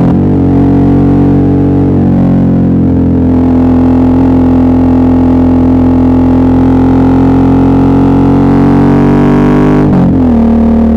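Suzuki V-Strom 650's V-twin engine running steadily under way, a loud drone that holds nearly one pitch and creeps slightly upward. The pitch dips briefly right at the start and again about ten seconds in, settling a little lower afterwards.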